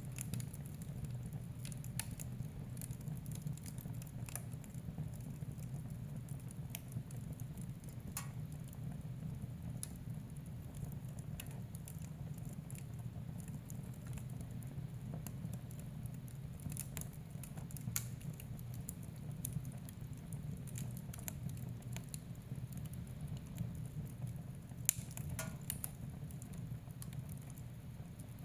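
Wood fire burning in a fireplace: a steady low rumble with scattered sharp crackles and pops, the loudest pop near the end.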